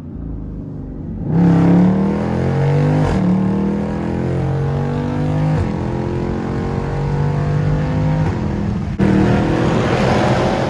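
SRT car's engine accelerating hard from about a second in. Its pitch climbs steadily and drops back at each upshift, about four times.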